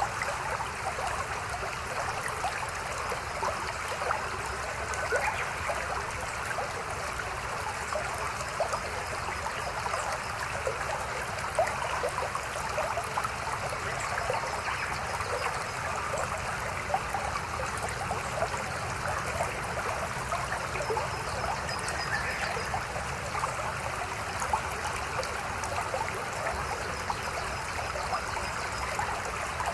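Small mountain stream babbling steadily over rocks, with many little splashes and trickles.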